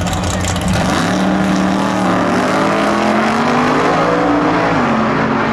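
Drag-racing car engine under hard acceleration, its pitch climbing steadily and dipping briefly near the end as it shifts gear.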